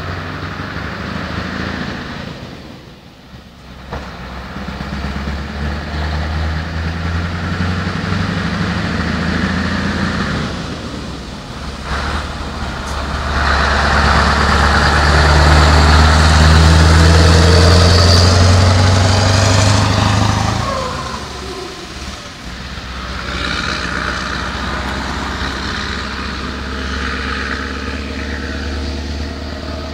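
Scania 144-530's 14-litre V8 diesel engine running. It dips briefly about three seconds in, grows louder and harder from about halfway, falls in pitch and eases off around two-thirds through, then runs steadily again.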